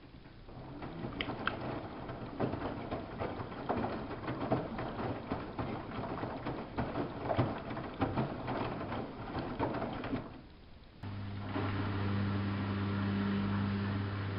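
Samsung WF71284 front-loading washing machine running: water splashing and crackling in the drum for about ten seconds, then a brief lull. About eleven seconds in, a steady low electric hum from the machine starts and holds.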